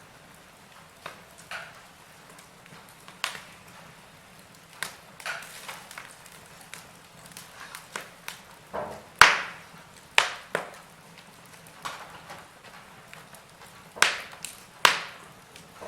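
Wood fire in a fireplace crackling: irregular sharp pops and snaps over a faint steady hiss, with the loudest pop about nine seconds in and two more close together near the end.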